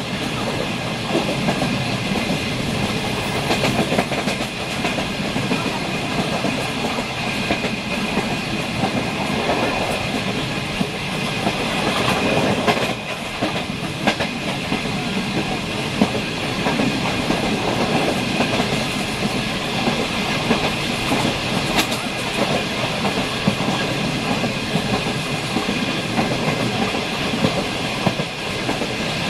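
Train running at speed, heard from inside the carriage through an open window: a steady rumble and rush of wheels on the track, with an occasional sharp clack from the rail joints.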